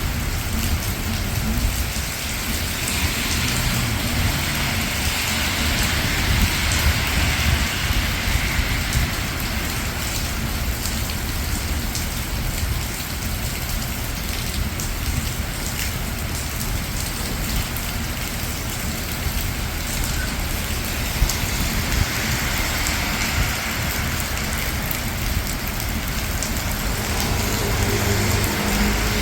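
Steady rain falling on a city street over a low rumble of traffic, with a swell of hiss a few seconds in and again later, and a vehicle engine humming near the end.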